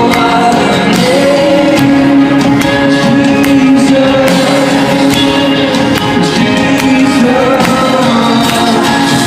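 Live Christian rock band playing at full volume, with held sung notes over sustained chords and steady drum hits.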